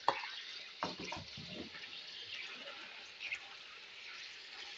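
Chicken pieces and ginger-garlic paste frying in hot oil in a karahi: a steady sizzle, with a few knocks and scrapes of a spoon against the pan about a second in.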